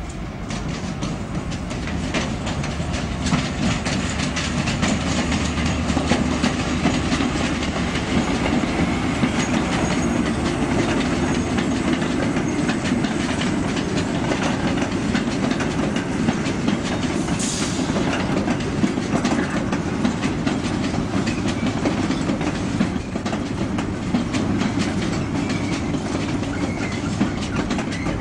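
Passenger train rolling past close by: a steady rumble, with the wheels clicking rapidly over rail joints and pointwork.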